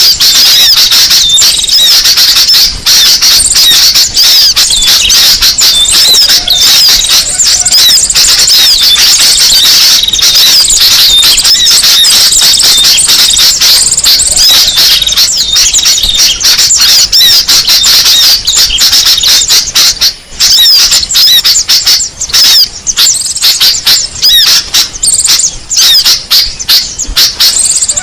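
Dense, continuous chattering of small songbirds, rapid high chirps and squeaks overlapping with hardly a break: a bird-lure call recording used to draw in small birds.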